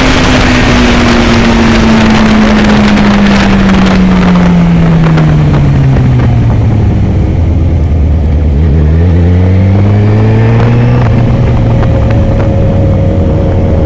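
Yamaha XJ6 motorcycle's inline-four engine running through an aftermarket Atalla exhaust. The engine note sinks slowly for several seconds as revs fall, then rises again about two-thirds of the way in and holds steady.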